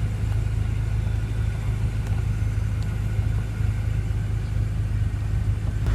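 Steady low rumble of a 2014 BMW M5's 4.4-litre V8 engine idling.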